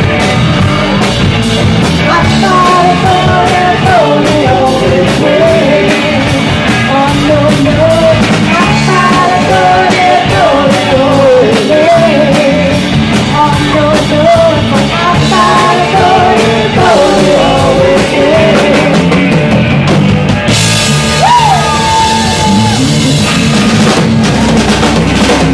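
Live rock band playing loud: drum kit keeping a steady beat under bass and electric guitars, with a lead line that wavers and bends in pitch over the top. About twenty seconds in, a bright cymbal wash joins as the song builds toward its close.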